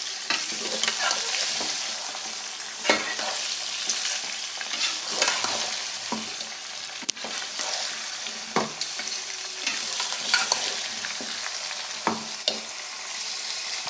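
Chicken pieces frying in hot oil with browned onions and ginger-garlic paste in a pot, sizzling steadily while being stirred. A metal spoon knocks and scrapes against the pot every couple of seconds.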